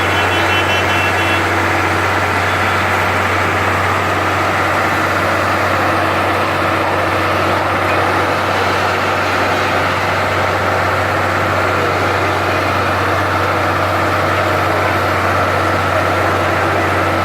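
Heavy road-construction machinery running steadily: a constant low engine drone under a wide, noisy hiss.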